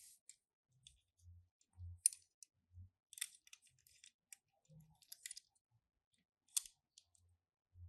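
Faint, scattered light clicks and taps of Tomica die-cast toy cars and their plastic packaging being handled, with a few soft bumps; the sharpest clicks come about two seconds in and near the end.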